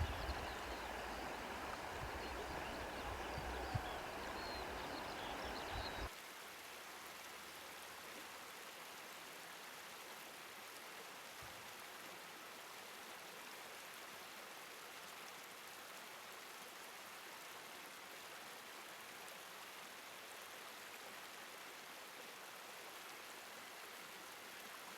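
Faint, steady rushing noise of running water. For the first six seconds it is louder, with a low rumble and a few short high chirps, then it cuts off abruptly to a quieter, even rush.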